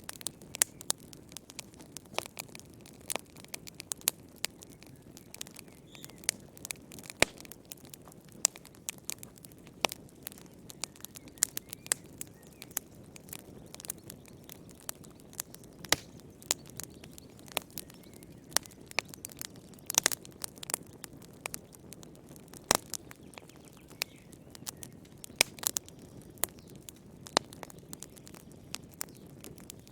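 Wood fire in a fireplace crackling, with irregular sharp pops and snaps, a few of them louder, over a soft steady rumble of the flames.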